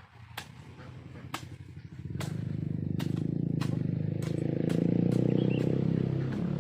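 A small motor engine, most like a motorcycle going by, grows louder from about two seconds in and stays strong through the rest. Scattered sharp clicks sound over it.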